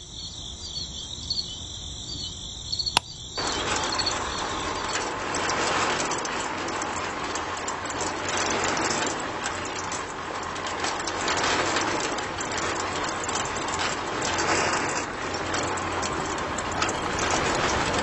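A single click about three seconds in, then the small electric motor of a homemade miniature concrete mixer starts and runs steadily, turning its drum of wet cement mix.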